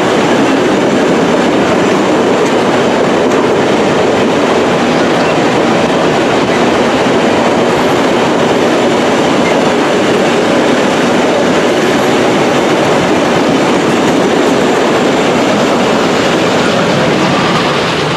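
Passenger train rolling along the rails: a loud, steady rumble of wheels and cars with clatter over the track.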